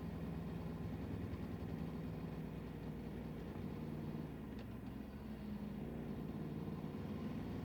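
Motor vehicle engine running steadily with a constant low hum and road rumble, with a faint click about four and a half seconds in.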